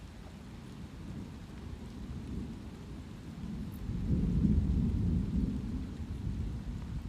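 Light rain with a low, rolling rumble of thunder that builds about four seconds in, peaks, and slowly fades.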